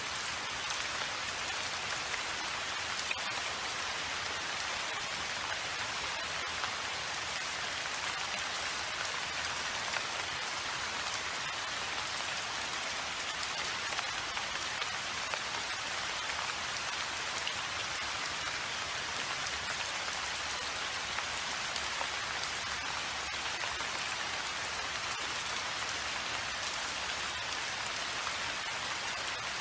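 Steady rain falling, an even hiss of many drops hitting a surface, with faint individual drop ticks scattered through it.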